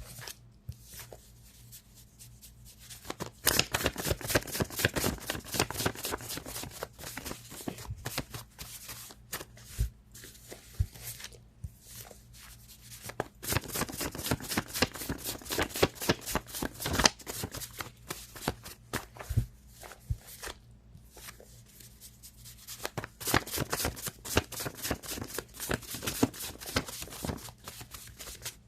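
A deck of cards shuffled by hand. There are three spells of rapid, dense flicking, each about four seconds long, with quieter handling of the cards between them.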